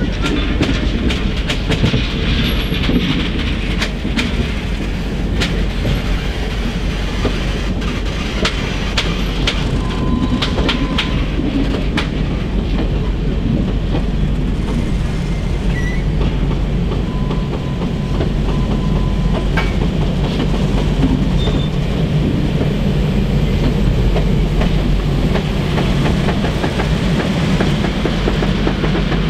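Union Pacific passenger train rolling by, its wheels clicking steadily over the rail joints above a continuous low rumble. A brief faint squeal comes twice around the middle.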